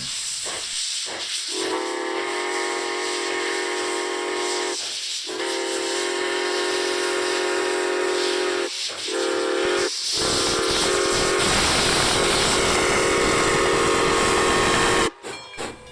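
Steam locomotive's chime whistle sounding the grade-crossing signal, long, long, short, long, over a steady hiss of steam. The deep running noise of the locomotive passing builds under the last long blast, and the sound cuts off suddenly near the end.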